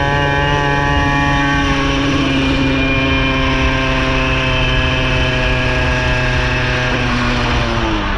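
Minarelli vertical two-stroke engine on a motorized bicycle running at a steady speed. Its pitch shifts slightly about two seconds in and falls away near the end as the engine eases off.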